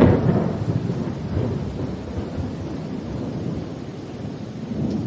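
Thunder in a rainstorm: a sharp crackle at the very start rolls off into a long low rumble that slowly fades, swelling again briefly near the end, over steady rain.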